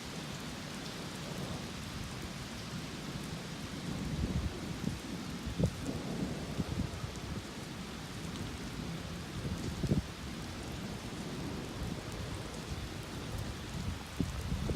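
Steady rain during a thunderstorm, with a low rumble of thunder underneath and a few sharp taps, two of them about 6 and 10 seconds in.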